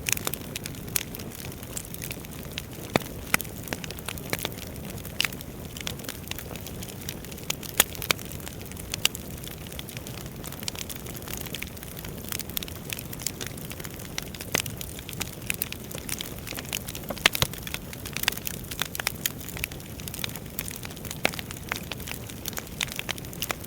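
Wood fire burning in a fireplace: a steady low rush of flame with frequent irregular crackles and pops from the burning logs.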